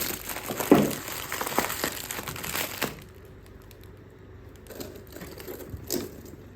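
Plastic packaging crinkling and rustling as items are handled, with a thump about a second in; after about three seconds it drops off to a few soft knocks.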